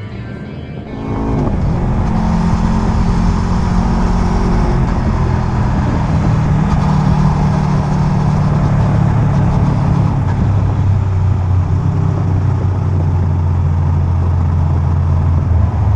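Sport motorcycle engine running under way with wind rush, its note shifting in steps a few times. Quieter music fades out about a second in as the engine comes up.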